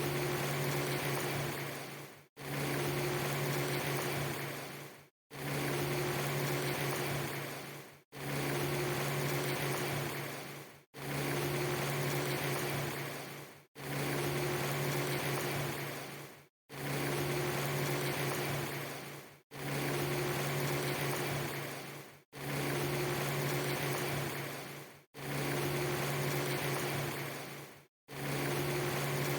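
Rain-like hiss over a steady low hum, played as a short loop of under three seconds that fades down and cuts to silence for an instant before restarting, about ten times over.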